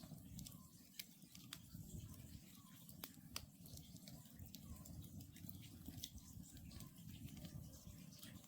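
Wood campfire crackling, with scattered sharp pops over a low rumble. Faint calls of a distant Oriental scops owl recur every second or so.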